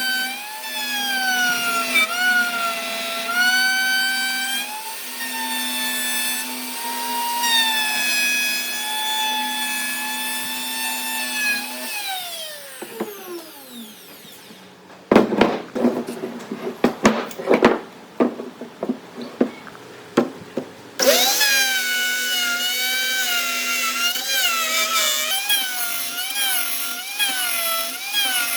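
Handheld electric power tool working wood: its motor whine rises and dips with the load, then winds down about twelve seconds in. A few seconds of knocks and clatter follow, and the tool starts up again about twenty-one seconds in, its pitch wavering in a steady rhythm with each pass.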